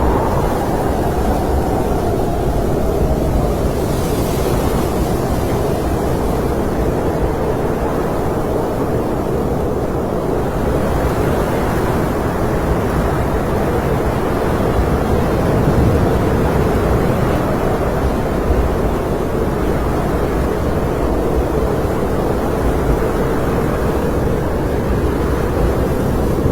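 Snowstorm wind blowing steadily, with a deep rumble and a faint low whistle held throughout.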